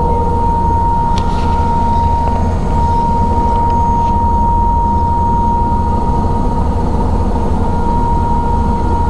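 Helicopter running in flight, a steady low drone with a constant high whine over it.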